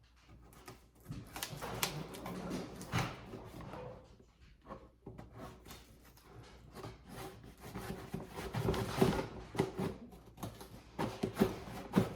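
Large cardboard toy box being handled and pried at while someone tries to open it: irregular rubbing and scraping with scattered knocks and clicks, busiest about a second in and again in the last few seconds.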